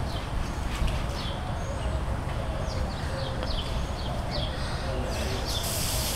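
A songbird singing a run of short, quickly falling chirps, repeated over several seconds, over a steady low rumble.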